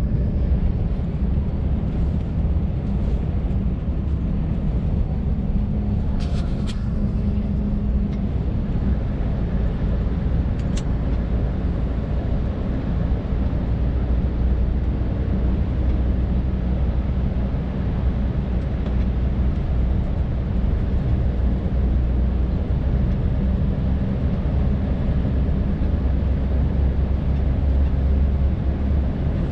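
Scania R580's 16-litre V8 diesel engine running steadily on the move, a deep even drone heard from inside the cab. A few brief clicks come about six to seven seconds in and again near eleven seconds.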